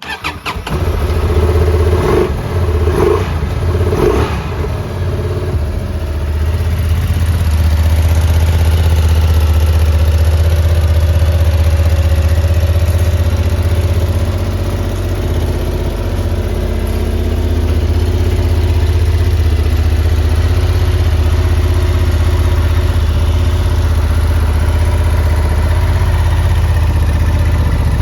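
Honda XL750 Transalp's 755 cc parallel-twin engine starting, blipped three times in the first few seconds, then settling into a steady idle.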